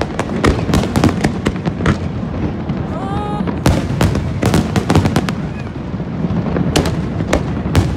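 Aerial fireworks bursting in rapid succession: many sharp bangs and crackles over a continuous low rumble.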